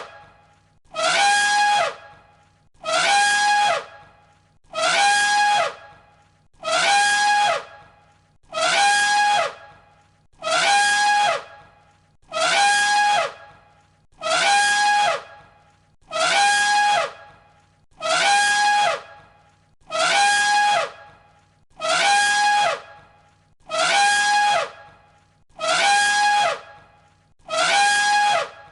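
Elephant trumpeting: the same high, brassy call, about a second long, repeated every two seconds or so as a loop, each call dipping slightly in pitch as it ends.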